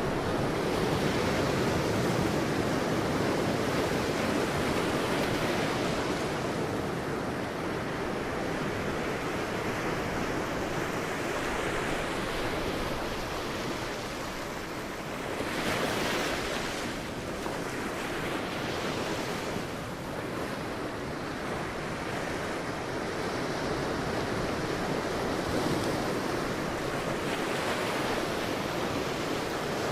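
Sea waves breaking and washing on a beach, a continuous surf noise that swells and recedes, with the clearest wave breaking about halfway through.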